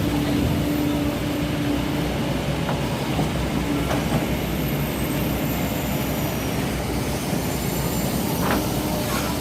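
Excavator's diesel engine running steadily under load, with a pitched hum that comes and goes and a few short knocks.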